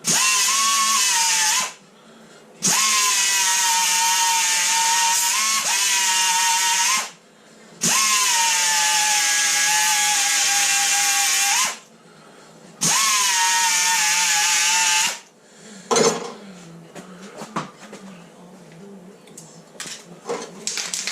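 Electric grinder run in four bursts of a few seconds each, a steady high whine that comes up to speed at each start and cuts off, grinding the car door's steel back to clean metal for welding. After the last burst, a few knocks and clicks of tool handling.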